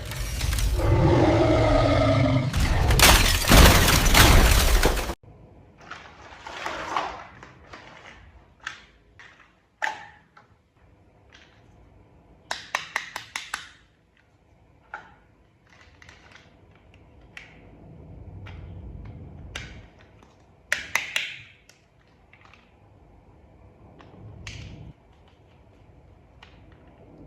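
Small plastic toy parts being handled and snapped together: scattered sharp clicks, snaps and short rattles. Before that, a loud noisy sound with wavering tones runs for about five seconds and cuts off suddenly.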